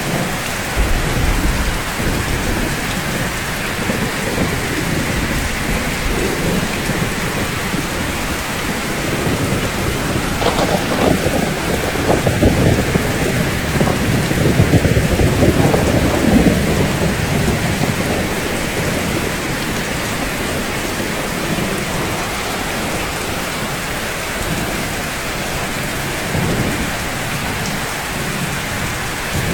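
Steady rain falling on a roof. About ten seconds in, a rolling rumble of thunder swells up and lasts several seconds before fading back into the rain.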